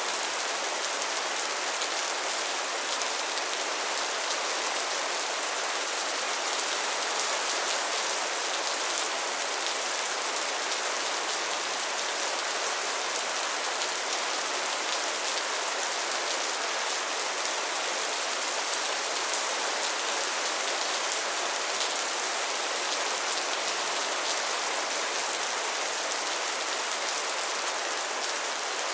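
Rain falling steadily: an even hiss with a fine patter of drops.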